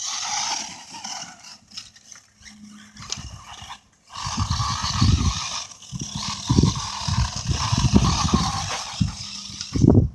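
Electric motor and gear drive of a Redcat MT10e 1/10-scale RC monster truck whining as it is driven in bursts of throttle over bumpy ground. The whine drops out briefly a little before the halfway point, then comes back.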